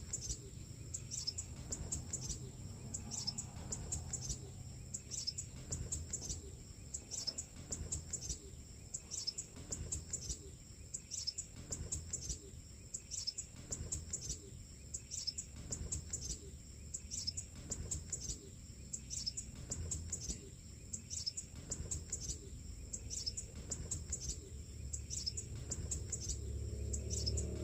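Bird calling with short, high chirps repeated about once a second, over a steady high-pitched drone.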